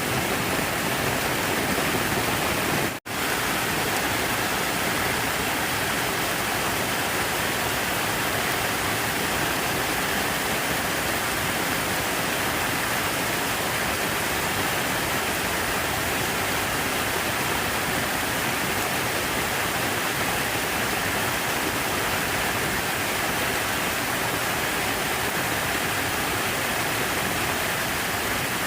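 Steady rush of falling water, even and unbroken apart from a momentary cut-out about three seconds in.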